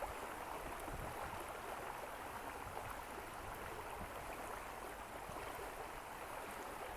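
Water of a stream flowing steadily.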